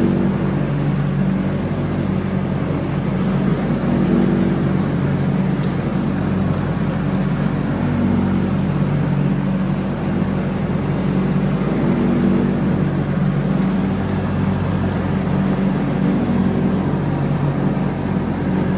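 John Deere X304 riding lawn mower engine running steadily while mowing, its note swelling and easing slightly every few seconds under the changing load of the cutting deck.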